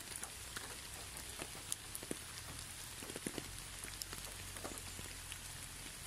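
Steady rain, an even hiss with many separate drops ticking sharply through it, over a low steady rumble.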